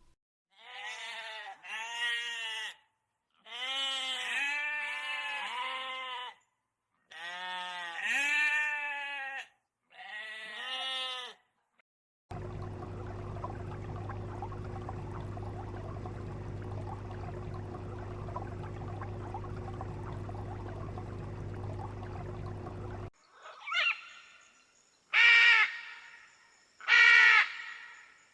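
Sheep bleating: about six quavering bleats in the first twelve seconds. A steady hum with fixed low tones then runs for about ten seconds, and a few short, loud calls follow near the end.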